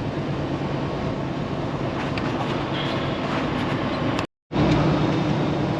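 Steady engine drone and road noise inside the cab of a semi truck cruising on the highway. The sound cuts out completely for a moment about four seconds in, then resumes.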